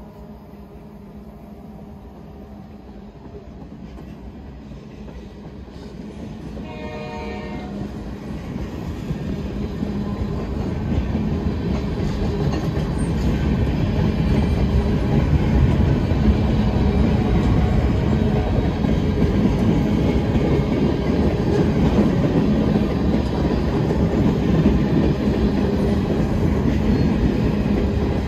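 CP Railway freight train approaching and passing, growing steadily louder over the first half and then running loud and steady. A short horn blast sounds about a quarter of the way in.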